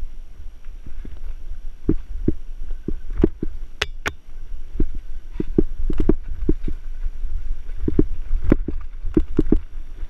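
Mountain bike rolling over rough trail: a steady low rumble with irregular sharp knocks and rattles from the bike.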